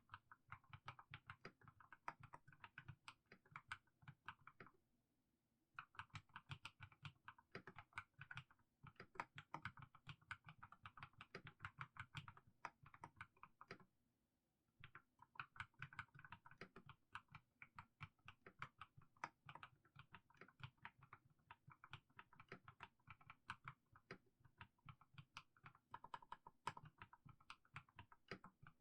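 Mechanical keyboard with fully lubed Haimu Sea Salt switches being typed on: a steady run of keystrokes, broken by two short pauses, about five seconds in and about fourteen seconds in.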